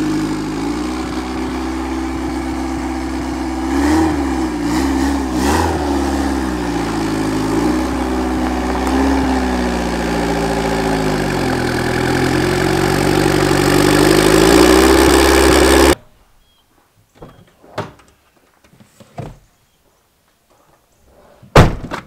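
Turbocharged 1999 Honda Civic's D16 four-cylinder engine running as the car pulls across the lot, its pitch rising and falling with the throttle, with two quick blips about four and five and a half seconds in, and growing louder as the car comes near. The engine sound cuts off abruptly about sixteen seconds in, followed by a few faint knocks and one loud thump near the end.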